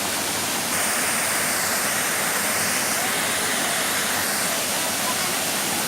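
Waterfall: a steady rush of falling water, a little louder from about a second in.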